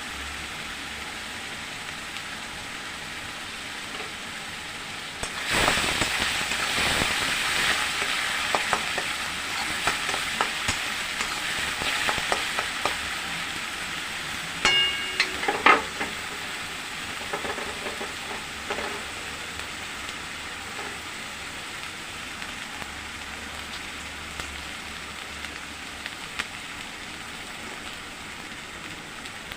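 Oil frying in a karahi, with the sizzle rising sharply about five seconds in as something is added to the hot oil, then easing off. A spatula stirs and knocks against the pan, with a ringing metal clink about fifteen seconds in.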